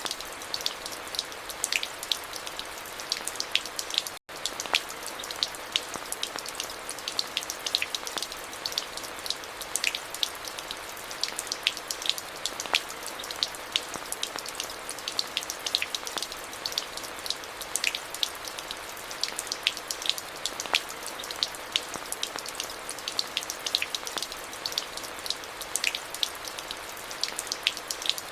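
Steady rain: an even hiss with many sharp individual drops ticking over it. The sound cuts out for a split second about four seconds in.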